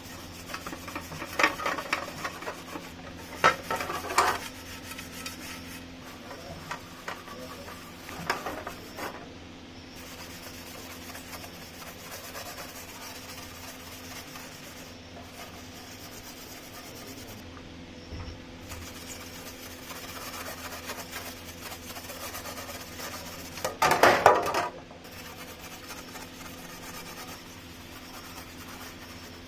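Hand scraping and rubbing on the table fan's parts, in irregular short bursts with the loudest about 24 seconds in, over a faint steady hum.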